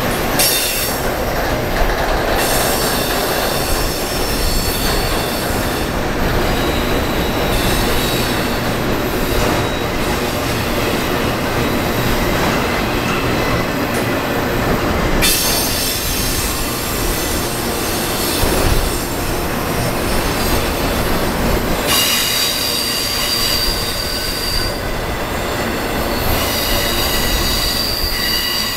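A long freight train of empty auto rack cars rolling past steadily, the wheels rumbling and clattering on the rails. A high wheel squeal comes and goes, strongest in the last several seconds.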